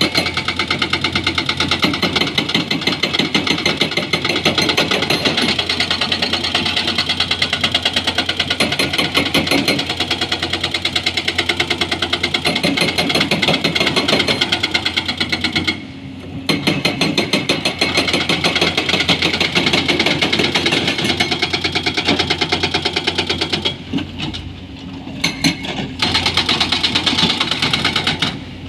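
Excavator-mounted hydraulic breaker hammering rock in a rapid, even stream of blows over the machine's engine hum, pausing briefly twice.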